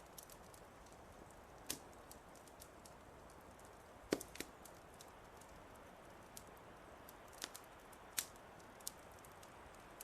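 Wood fire crackling: a soft steady hiss with scattered sharp pops, the loudest a little after four seconds in.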